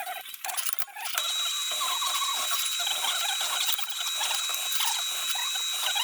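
Drill boring a hole through steel flat stock. A few clicks, then from about a second in a steady grinding with a high whine that stops near the end.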